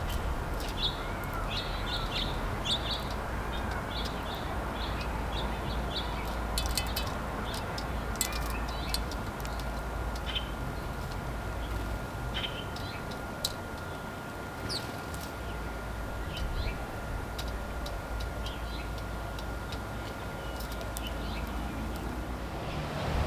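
Backyard songbirds chirping: short high chirps, busiest in the first few seconds, then scattered. Underneath are a low steady rumble and a faint steady high whine.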